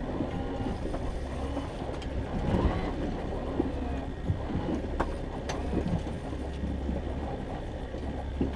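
Fishing boat's engine running steadily with a low hum, with a few sharp clicks and knocks of gear aboard, two of them about five seconds in.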